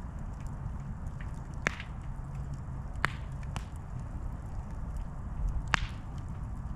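Campfire burning with a low steady rumble and sharp crackling pops: four loud snaps scattered through, among fainter ticks.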